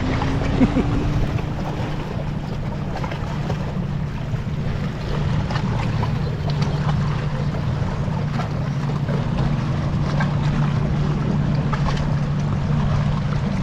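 Steady rush of a creek running high, with wind buffeting the microphone.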